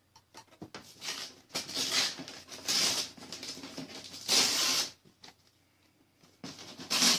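Gift-wrapping paper being carefully peeled and unwrapped from a package: irregular rustling and crinkling bursts, with a pause of about a second and a half near the end.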